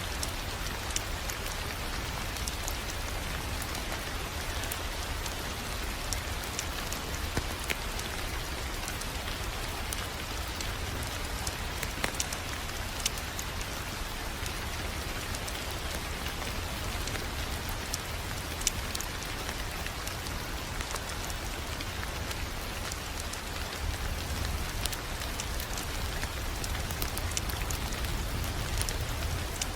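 Wood fire crackling over a continuous hiss and low rumble, with scattered sharp pops every few seconds.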